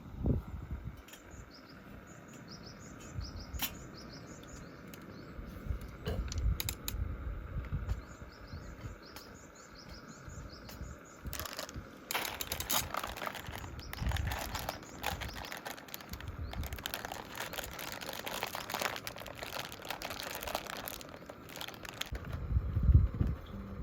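Small birds chirping in the background, then about ten seconds of dense crinkling and rustling from something being handled, with scattered low thumps and a louder knock near the end.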